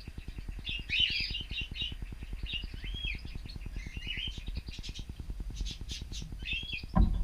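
Cockatiels chirping and calling in short, repeated notes over a low, rapid pulsing hum, with a sudden thump near the end.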